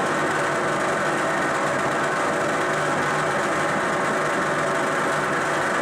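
A motor-driven machine running steadily with a constant-pitched mechanical hum.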